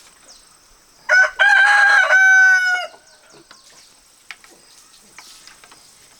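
A rooster crows once, about a second in: a short first note, then a long held call that drops in pitch at the end. Faint chirps and ticks sound around it.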